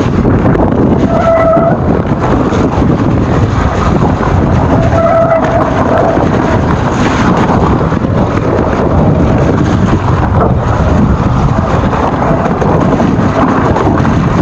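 Riding noise from an electric mountain bike on a wet trail, with wind buffeting the microphone and the bike rattling, broken twice by a brief squeal of wet disc brakes, about a second in and about five seconds in.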